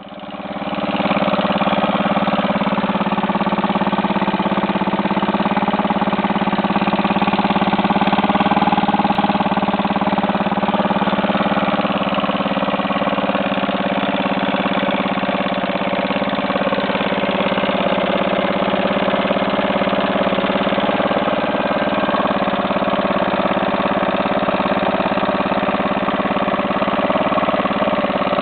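1970 Evinrude Mate antique outboard motor idling steadily. It comes up in level over the first second. The owner finds the idle okay for an old motor whose carburettor needs rebuilding.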